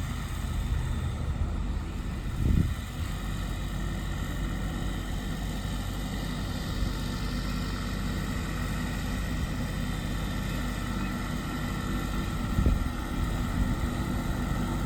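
Farm tractor engine running steadily, with two short low thumps, about two and a half seconds in and again near the end.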